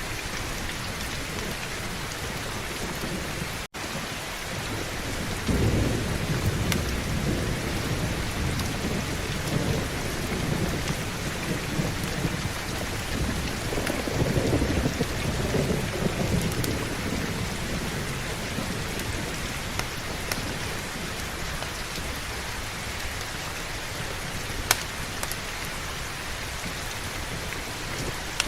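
Steady heavy rain with two low rolls of thunder, one starting about five seconds in and one around fourteen seconds. The sound cuts out for an instant near four seconds in, and a few sharp clicks stand out, the loudest near the end.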